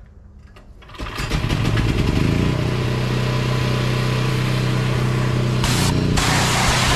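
Pressure washer starting up: its motor spins up, rising in pitch, then runs at a steady hum. Near the end, a hissing spray of water from the wand comes in briefly and then again.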